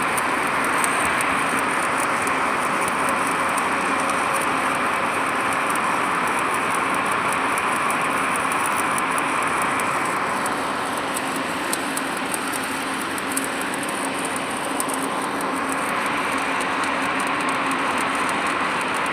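Shielded metal arc (stick) welding arc crackling and hissing steadily while laying a root pass in the 2G position.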